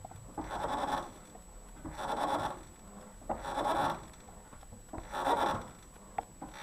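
Mitsubishi Lancer X front suspension strut creaking as the steering wheel is turned: four creaks about a second and a half apart, a noise whose cause the owner does not know.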